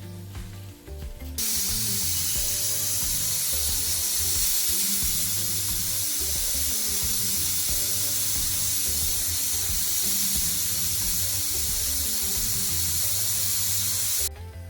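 Loud, steady hissing over background music. It cuts in about a second and a half in and stops abruptly shortly before the end.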